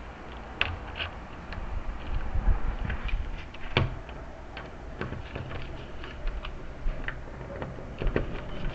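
Irregular small clicks and taps of door lock hardware being handled and fitted by hand, the sharpest click about four seconds in.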